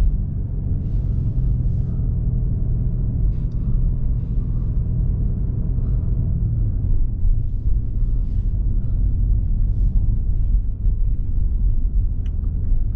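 BMW M5 Competition (F90) with its 4.4-litre twin-turbo V8 driving in traffic, a steady low rumble of engine and road noise that eases slightly about halfway through.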